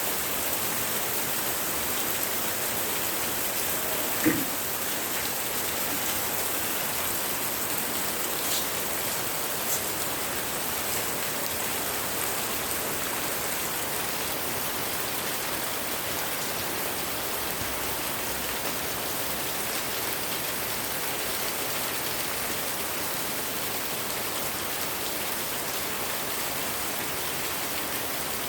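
Heavy rain falling steadily, an even hiss of rain on surfaces. About four seconds in there is one brief louder sound, like a drop or knock, and two fainter ones a few seconds later.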